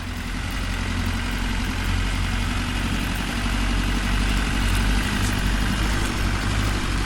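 Vehicle engine running steadily at idle, a low, even rumble that swells in at the start and then holds.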